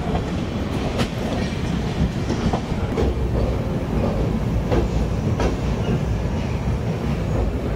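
Passenger train running on the rails: a steady low rumble with the clickety-clack of wheels over rail joints, a few sharp clacks standing out.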